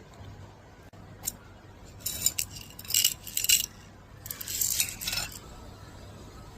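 Small metal objects clinking and rattling in two short spells, after a single faint click.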